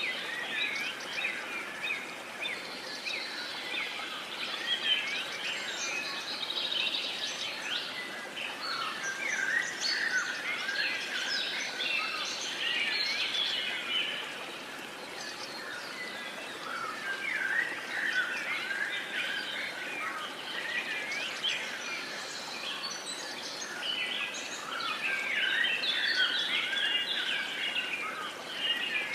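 A chorus of many small songbirds chirping and trilling at once, overlapping the whole time, over a steady background hiss of outdoor ambience.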